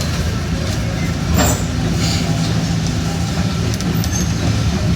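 Train running, heard from inside the cab: a steady low engine drone with running noise, and a short burst of noise about a second and a half in.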